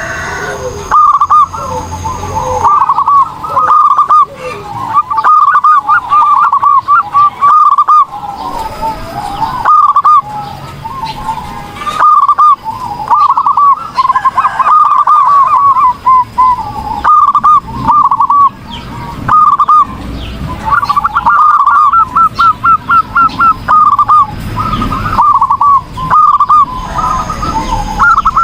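Zebra dove (perkutut) cooing in repeated bouts of quick rolling notes, a full, steady song of the kind used as a tutor recording for training other doves.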